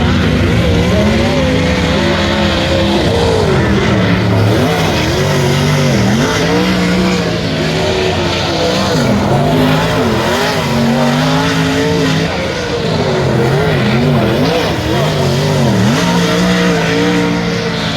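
Sprint cars racing on a dirt track: several engines running hard together, their pitch repeatedly rising and falling as they come off and back on the throttle.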